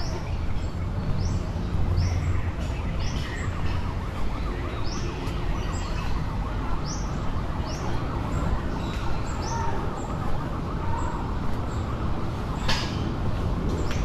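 A bird calling over and over in short, high, rising-and-falling chirps, one or two a second, over steady low wind noise on the microphone. A brief rustle comes near the end.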